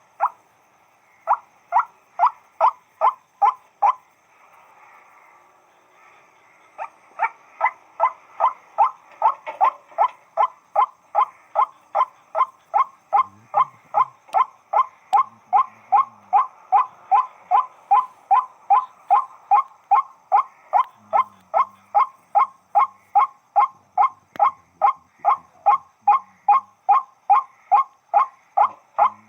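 White-breasted waterhen (burung wak-wak) calling: a long run of repeated harsh 'wak' notes, about two a second, broken by a short pause about four seconds in.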